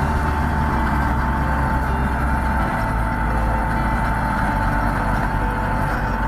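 Heavy diesel engine of large machinery running steadily, with a constant high whine over it; the low engine note shifts about two and a half seconds in.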